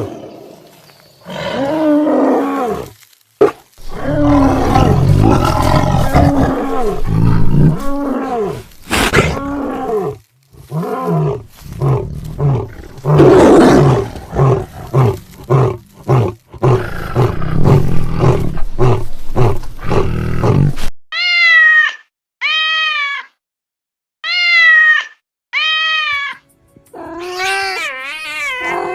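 Animal calls: a big cat roaring and growling in repeated loud calls for about twenty seconds. Then a cat meows four times in short, separate rising-and-falling calls, with more meowing near the end.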